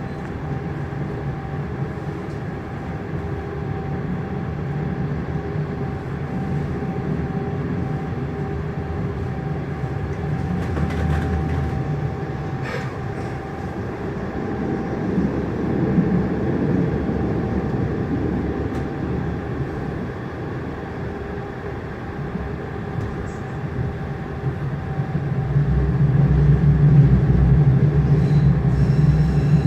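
Frankfurt U-Bahn line U8 train heard from inside the car: steady running noise with a constant hum. A deeper, louder rumble builds near the end.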